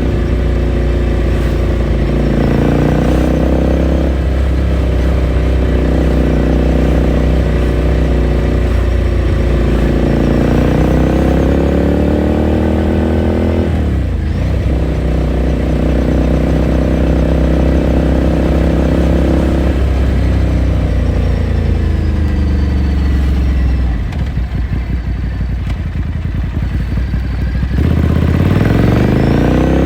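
Ducati Scrambler Sixty2's 400 cc air-cooled L-twin engine and exhaust, heard from the rider's seat while under way: the revs climb, drop sharply at a gear change about halfway, ease off later with a rougher, quieter stretch, then rise again as it accelerates near the end.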